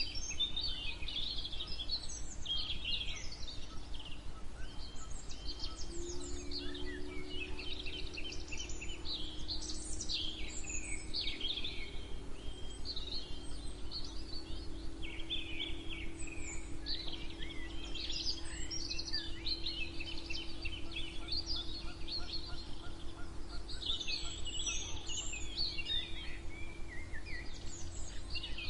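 A chorus of many songbirds chirping and singing at once, the calls overlapping throughout. A steady low hum comes in about six seconds in under the birdsong.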